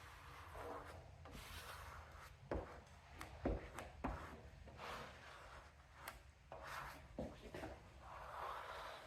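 Squeegee rubbing and scraping in strokes over a wet vinyl decal on a lawn tractor hood, pushing out soapy water and air bubbles. A few light knocks come about two and a half, three and a half, four and seven seconds in.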